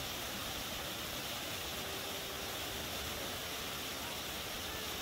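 River water rushing and gushing in a steady, unbroken wash of noise.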